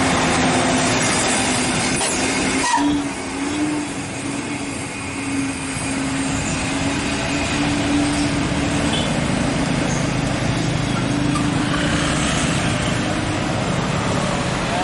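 Heavy truck's diesel engine working hard up a steep grade: a steady loud drone, dipping briefly about three seconds in.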